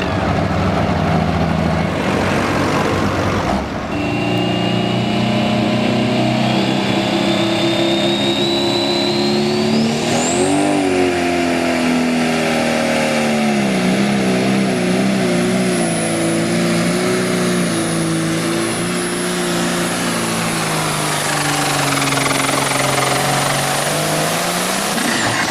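Pro stock pulling tractor's turbocharged diesel engine running hard under load, with a high turbo whistle that climbs steeply about ten seconds in and then holds. The engine pitch wavers through the run and falls away near the end as it comes off the throttle.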